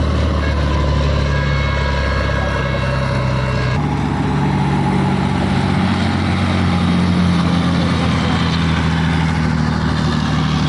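Large diesel engine of heavy mining equipment running steadily with a deep, even note. About four seconds in, the engine note changes abruptly.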